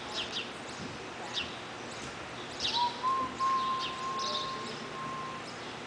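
Small birds chirping repeatedly, short high chirps scattered throughout. About halfway through, a steady high tone is held for about two and a half seconds.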